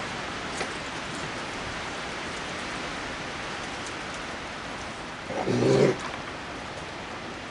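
Steady heavy rain, with a raccoon giving one short call a little over five seconds in, the loudest sound here.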